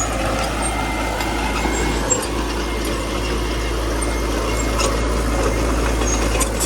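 Small bulldozer's diesel engine running steadily under work, with a few faint clicks over it.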